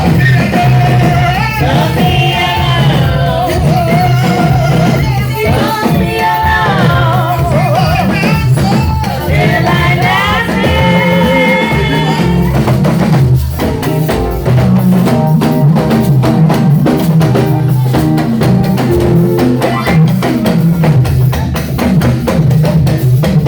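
Live praise music: a voice singing over a drum kit and band, the singing stopping about halfway through while the drums and instruments play on.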